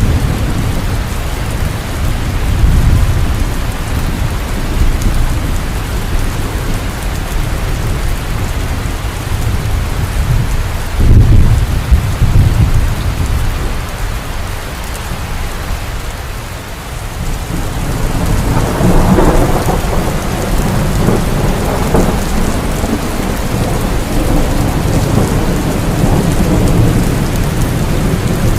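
Heavy rain falling steadily with thunder rumbling through it; the rumble swells loudest about eleven seconds in, eases off a few seconds later and builds again in the last third.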